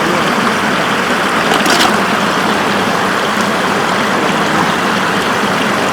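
Steady rush of floodwater flowing over a road, with a short sharp click about two seconds in.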